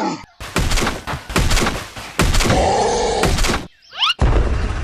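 A quick series of knocks and thuds, then about four seconds in a steady rumbling motor starts and keeps running.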